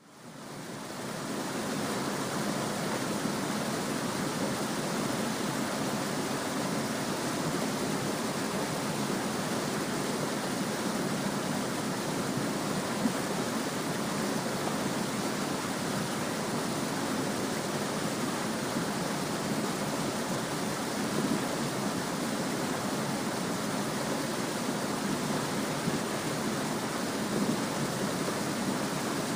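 A small stream babbling and trickling over rocks, a steady wash of running water that fades in over the first second, with a few brief splashes or clicks.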